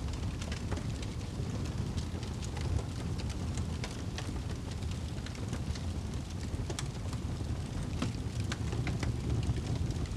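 Wood campfire crackling, with many small sharp pops and snaps scattered irregularly over a steady low rumble.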